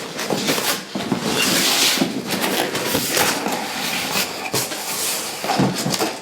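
Cardboard and plastic packaging being handled and pulled apart: steady rustling with scattered knocks and clicks.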